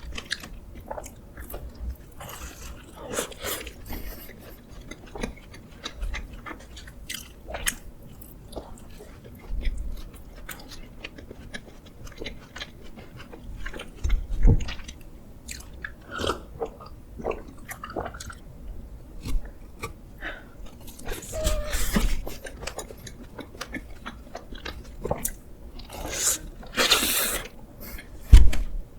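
Close-miked eating sounds: chewing and biting into Krispy Kreme cakes and doughnuts, with many small wet clicks. A louder knock comes about halfway through and another near the end.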